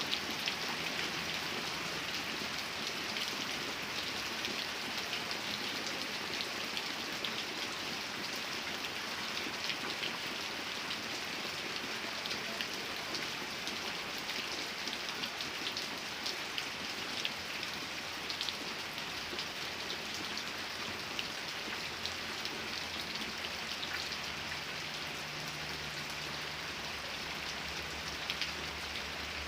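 Steady rainfall, with many individual drops ticking on a surface through an even hiss.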